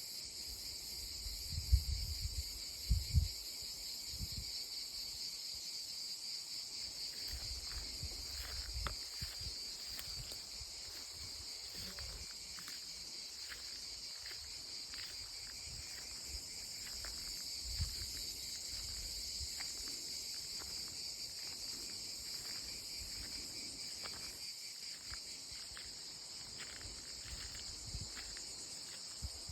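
Chorus of cicadas singing in olive trees: a steady, high, shrill buzzing. A few low thumps come about two and three seconds in.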